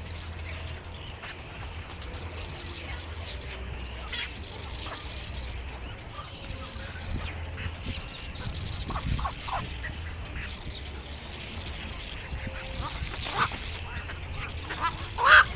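Birds calling in short, scattered calls, with a loud pair of calls near the end and a steady low hum underneath.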